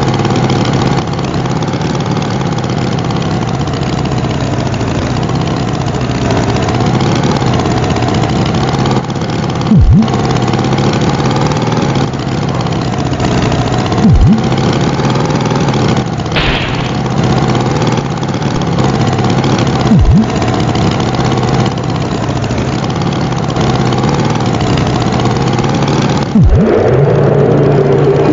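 Tractor engine running steadily, with a deep thud four times, several seconds apart.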